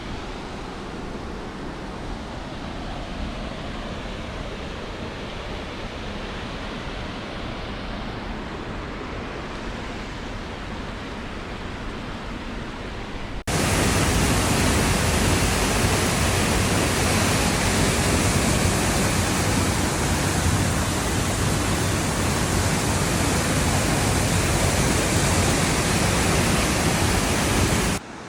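Steady rush of a waterfall or fast river, with a sudden cut about halfway through to a much louder, fuller rush of falling water.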